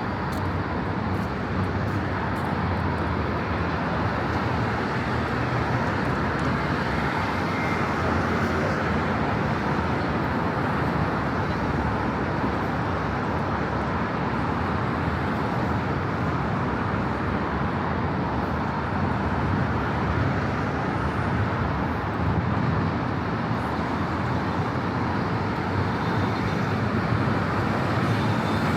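Steady city street traffic: a continuous wash of car and engine noise with no single vehicle standing out.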